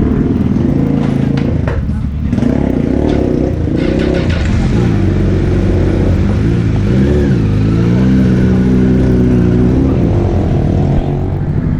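Superbike engines running, with one engine revved up and back down about seven seconds in.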